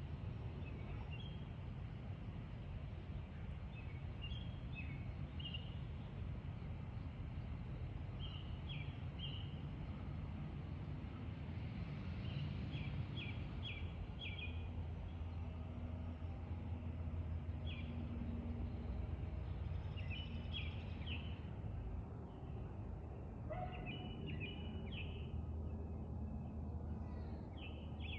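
Small birds chirping in short, repeated bursts of high notes, over a steady low rumble that swells in the middle: the distant jet engines of an Airbus A340-300 on approach.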